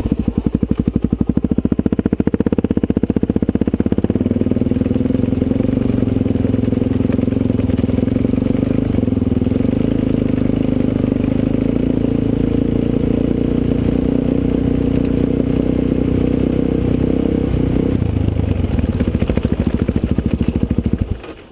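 Suzuki DR-Z400SM's single-cylinder four-stroke engine running at low, fairly steady revs, its pitch shifting slightly a couple of times. It cuts off suddenly near the end.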